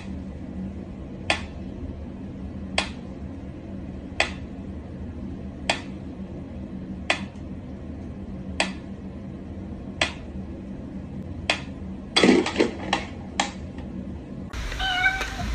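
A sharp click about every second and a half over a steady low hum, then a quick flurry of clicks with a short cat meow. The sound changes abruptly about a second before the end.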